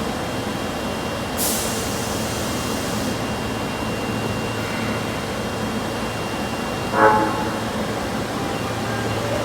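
Osaka Metro subway train noise at a station platform: a steady rumble, a burst of air hiss about a second and a half in, and a short, loud pitched toot about seven seconds in.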